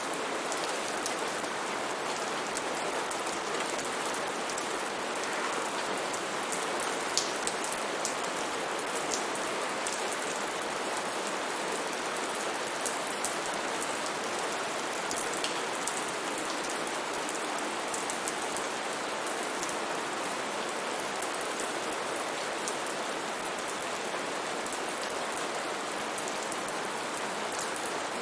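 Steady rainfall in a rainforest, a continuous hiss of rain with scattered sharp drips and patters of individual drops landing on leaves and surfaces.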